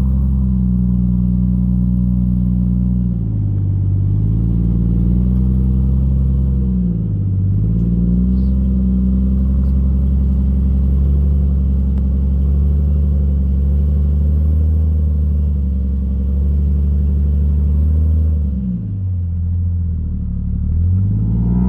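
Jeep Cherokee XJ engine running at low, steady revs off-road. Its pitch dips and climbs back three times: about three seconds in, about seven seconds in, and near the end.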